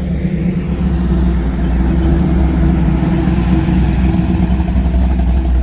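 A car engine running at low revs close by, getting a little louder over the first couple of seconds and then holding steady.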